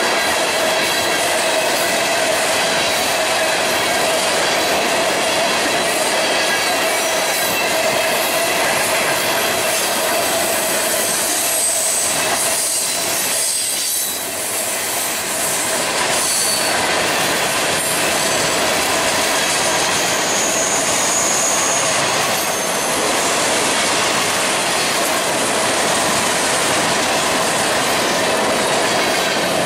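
Florida East Coast Railway freight train of tank cars and flatcars rolling past close by on a curve: a steady rumble of steel wheels on rail with squealing wheel flanges. A higher squeal rises briefly twice, about twelve and twenty-one seconds in.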